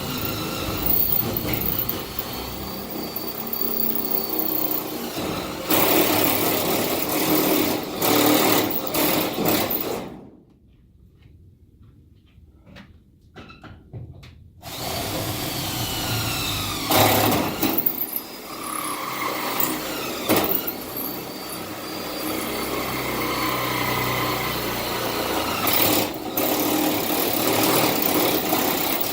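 Cordless power drill boring holes, running in long stretches with its motor pitch rising and falling under load. It stops for about four seconds near the middle, with only a few faint clicks, then starts again.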